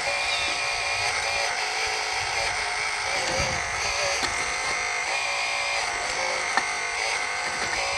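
Electric-driven hydraulic pump of a 1/12 scale RC4WD Earth Digger 4200XL excavator whining steadily as the machine crawls and works its hydraulics, its pitch shifting a little midway, with a single sharp click near the end.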